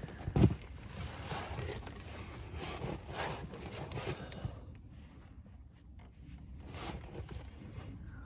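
A low thump about half a second in, then irregular rustling and scraping for a few seconds, with another brief scrape near seven seconds.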